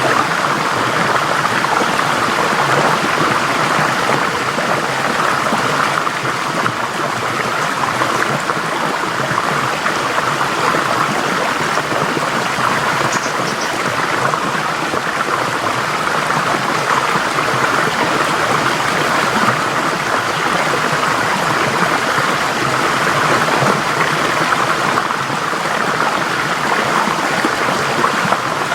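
Forest stream flowing: a steady rush of water over rocks.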